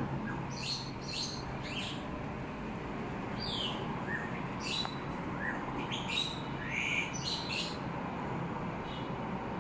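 Small birds chirping: short, quick chirps that drop in pitch, coming in clusters, over a steady background hum.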